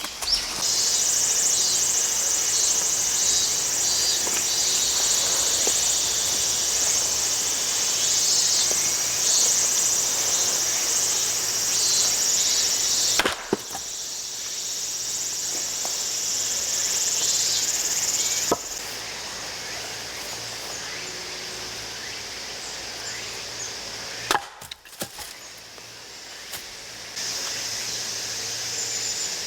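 A heavy hammer-axe splitting firewood: three sharp wooden cracks, about five seconds apart, in the second half. A steady high insect chorus runs underneath.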